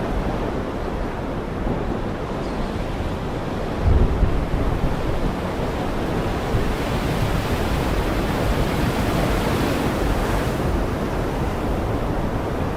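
Heavy rain falling in a steady, dense hiss, with a brief low thump about four seconds in.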